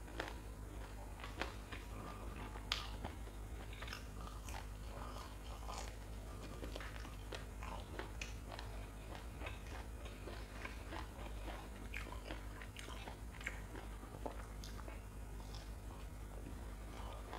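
Close-miked chewing and crunching of crisp fried lentil fritters (dhal wade) and fried dried red chilies: a steady run of short, sharp crunches and bites, the sharpest about three seconds in, over a steady low hum.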